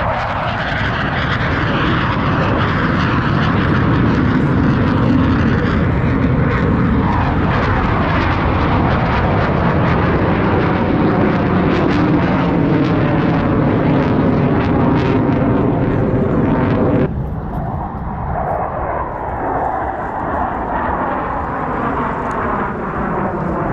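Blue Angels F/A-18 Super Hornet jets passing overhead: loud jet engine noise with a sweeping, shifting whoosh as they pass. About two-thirds of the way through the sound suddenly loses its high end and goes on as a duller, lower rumble.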